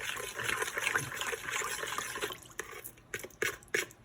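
Liquid marinade sloshing as it is mixed in by hand. About two and a half seconds in it gives way to a run of short, sharp taps, about three a second.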